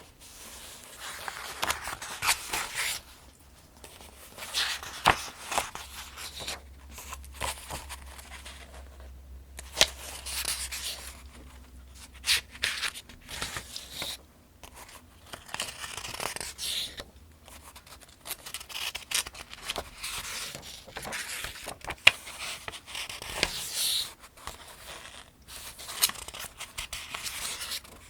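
Pages of the Farmers' Almanac being turned one after another, each turn a papery swish with crisp crackles, about every two to three seconds.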